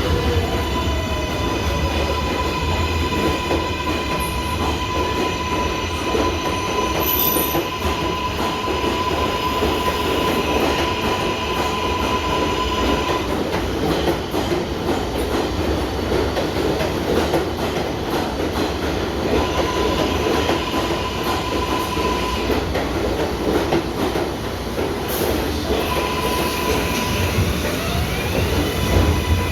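R188 subway train on the elevated 7 line running on the track, with a steady rumble and wheel clatter and a high, steady wheel squeal that stops about halfway through and returns briefly twice later.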